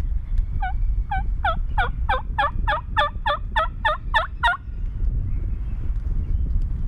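A run of about fifteen turkey yelps, coming slightly faster as they go. A loud, low wind rumble on the microphone runs underneath.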